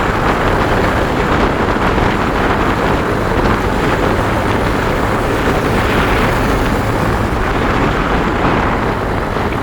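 Steady rush of wind buffeting the microphone while riding a motorbike, with the bike's engine running underneath.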